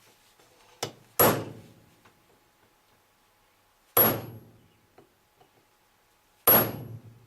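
Small ball peen hammer striking a centre punch on a metal shaft three times, a few seconds apart, each blow with a short high metallic ring. The blows are marking the shaft's centre so a drill bit will not wander.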